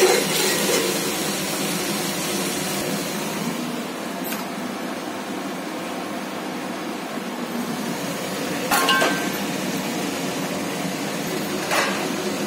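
Onion, ginger and garlic masala sizzling steadily in oil in a steel pot, with a few sharp clinks of steel cookware about four, nine and twelve seconds in.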